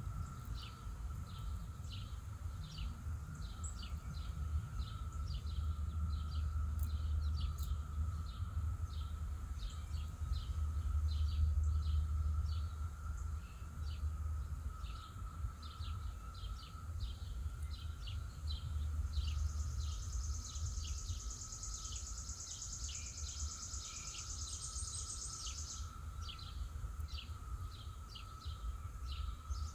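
Outdoor ambience: a bird chirping over and over, about two short notes a second, over a steady low rumble and a faint steady hum. Around two-thirds of the way through, a high buzzing trill comes in and lasts about six seconds.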